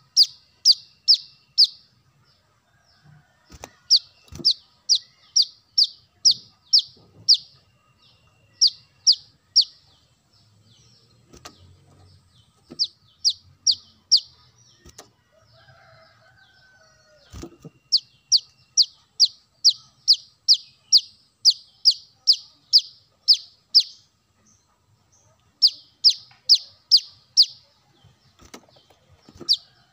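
Brown-throated sunbird (kolibri kelapa) calling: runs of sharp, high, downward-sweeping chips at about two to three a second, each run of four to twelve notes broken by short pauses.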